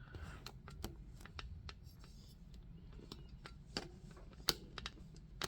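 Hands handling objects at a desk: a scatter of small clicks and taps, with a sharper tap about four and a half seconds in.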